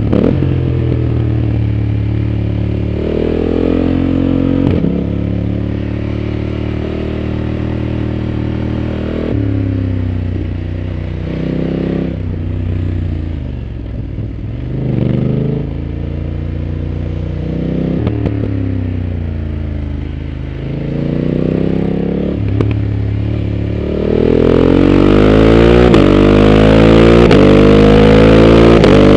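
Onboard sound of a BMW F 900 GS's parallel-twin engine at track speed, revving up through the gears with stepped drops in pitch at each upshift. About halfway through it slows with falling pitch, then picks up again, and near the end it runs louder under hard acceleration with wind rushing past.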